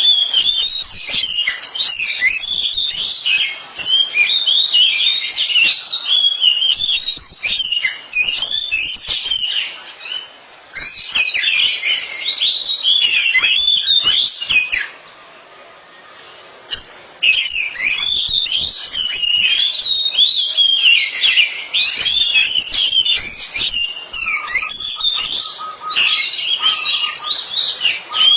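Oriental magpie-robins (kacer) singing: a rapid, varied run of whistled phrases, trills and chirps, which the title calls a pair competing in song. The song stops for about two seconds midway, then picks up again.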